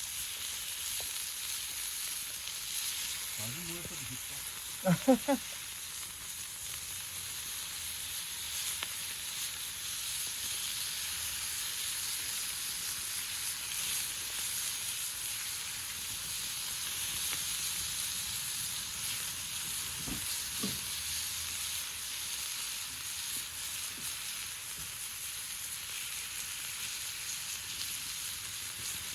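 Thawed lamb meat sizzling steadily in olive oil in a pan over a campfire. A brief louder burst breaks in about five seconds in.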